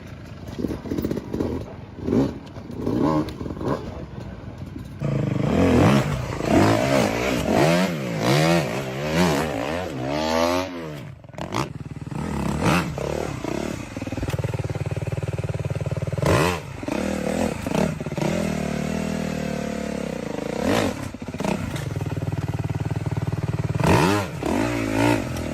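Dirt bike engines revving, the pitch climbing and dropping again and again, then running more steadily, with a few sharp knocks and clatter in between.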